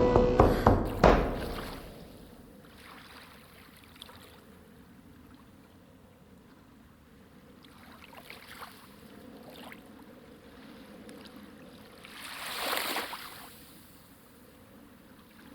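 Music dies away in the first second or so, then faint water lapping and splashing at a lake's edge, with one louder swell of water noise about twelve seconds in.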